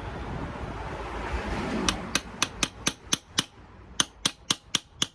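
Hammer tapping lightly on a socket about a dozen times, roughly four taps a second with a short pause in the middle, driving a small sealing cap into its hole in the Mercedes M113 V8 engine. The taps are preceded by about two seconds of steady noise.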